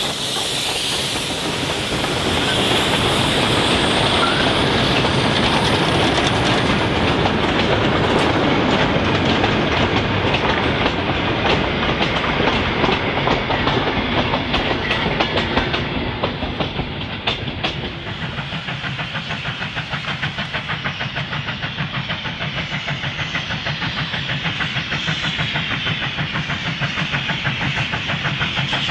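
Wooden goods wagons of a steam-hauled mixed train rolling past close by, wheels clicking over the rail joints in a steady rhythm. Past the middle it turns quieter: a steam train working in the distance, with a quick regular beat.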